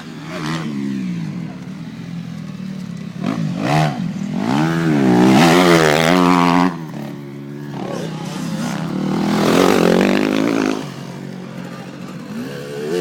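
Motocross bike engine revving up and down as the throttle is repeatedly opened and closed. It is loudest just past the middle, where it cuts off suddenly, then winds up again once more.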